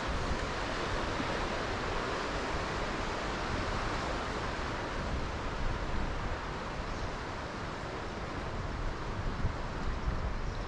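Steady rushing of wind over the microphone while cycling, with a low rumble underneath, a little louder through the first half.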